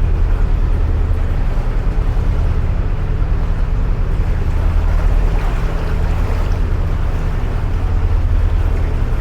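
Narrowboat's diesel engine running steadily at cruising speed inside the canal tunnel, a deep even throb, with a short swell of hiss about five seconds in.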